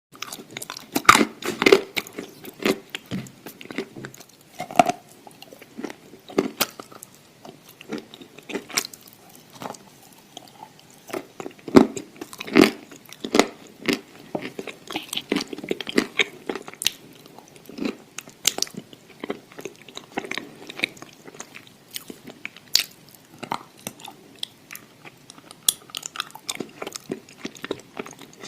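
Close-miked biting and chewing of something crunchy, a series of irregular sharp crunches with softer chewing between them.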